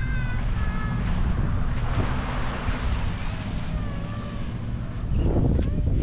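Wind buffeting the action camera's microphone in a steady low rumble, over the wash of surf on the beach. A few faint short high calls come through near the start and again around the middle.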